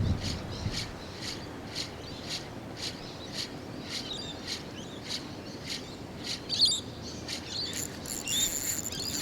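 Fishing reel being wound, a rasping tick about two to three times a second as the handle turns, with birds chirping over it near the end.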